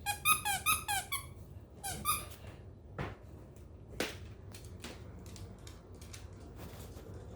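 Squeaky dog toy squeezed, about five quick squeaks in the first second and one more about two seconds in, followed by two short knocks.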